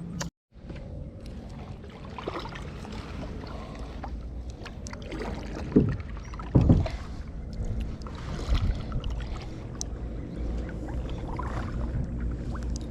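Kayak being paddled: paddle strokes and water washing along the hull, with two louder thumps about six seconds in.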